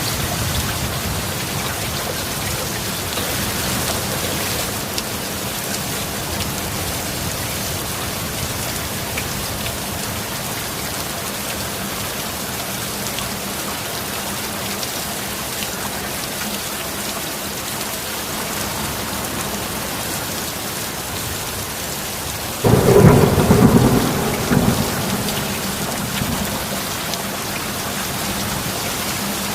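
Steady rain, with a sudden loud clap of thunder about three quarters of the way in that rumbles for two or three seconds and fades back into the rain.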